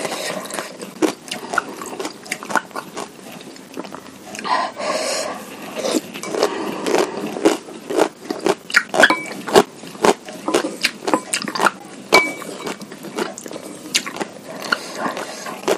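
Close-miked chewing and biting of bakso meatballs and chilies, with irregular wet mouth smacks and clicks.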